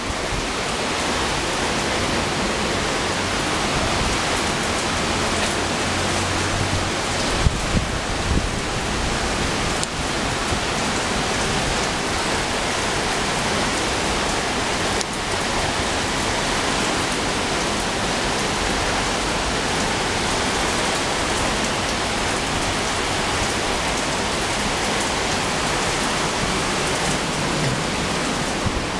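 Heavy rain pouring down in a storm: a steady, dense hiss, with a couple of brief low thumps about seven or eight seconds in.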